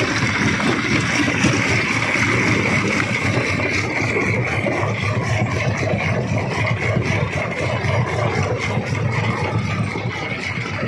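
Large stone crusher running under load: a steady engine-like rumble with a constant whine, and a dense clatter of rock being broken and knocking about.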